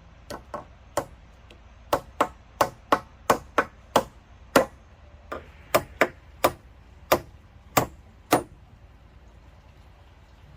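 A hand tool striking wood over and over, about eighteen sharp blows at an uneven pace of roughly two a second, then stopping.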